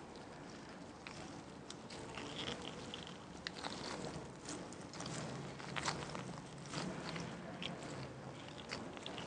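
Close-up food-preparation sounds: scattered small clicks, taps and rustling as ingredients and utensils are handled, with no steady rhythm.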